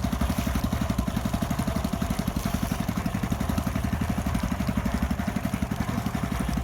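Fishing boat's engine running steadily, with a rapid, even chugging beat.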